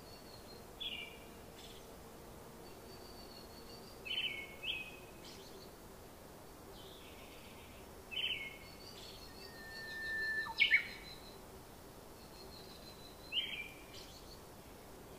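Bird calls: short, sharply falling chirps repeated every few seconds, with the loudest about ten and a half seconds in, over a faint steady background hum.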